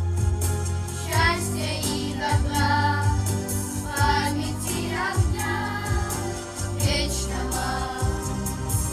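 A song sung by a choir over an instrumental backing with a steady low bass and a regular beat.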